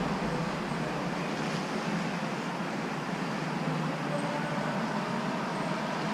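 Mini excavator's diesel engine running steadily, with a constant work-site machinery noise.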